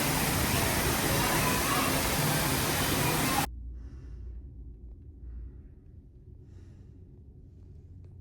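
Audience applauding and cheering, cut off abruptly about three and a half seconds in, followed by a much quieter room with faint scattered sounds.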